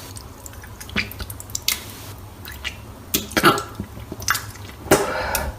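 Sound effect of a person vomiting: wet splattering and dripping with scattered small splashes, and two short throaty retches, one about halfway through and one near the end.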